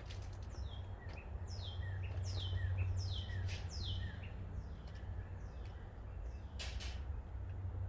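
A wild bird calling a run of about seven short, downward-sliding whistled notes, roughly one every half second, which stop after about four seconds. A steady low hum sits underneath, and a couple of sharp clicks come near the end.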